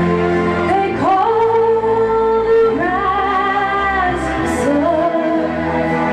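Live band music with a singer holding long notes, each sliding up into pitch, over steady low accompaniment.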